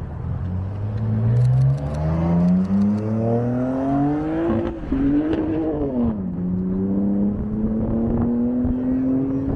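A car engine accelerating. Its pitch climbs steadily for about five seconds, drops sharply about six seconds in, then climbs slowly again.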